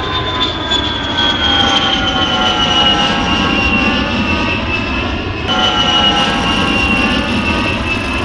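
Small battery-powered electric motor spinning a propeller: a high whine that slowly sinks in pitch over a dense rumble of air. It jumps back up in pitch about five seconds in.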